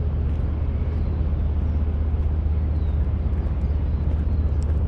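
Motorcycle engine running steadily: a low, even drone with a rushing hiss over it.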